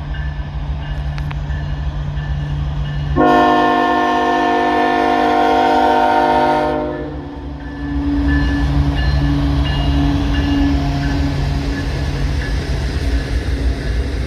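A train's locomotive horn sounds one long chord of about three and a half seconds, a little after the start. Under it and after it the passing train rumbles steadily.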